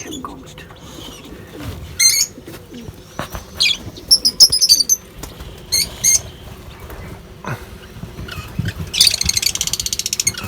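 Aviary birds chirping in short high bursts, with a rapid run of fluttering wingbeats about nine seconds in.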